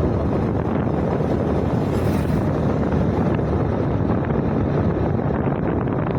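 Wind buffeting a helmet or handlebar microphone on a moving scooter, a steady rush with the scooter's running and road noise underneath.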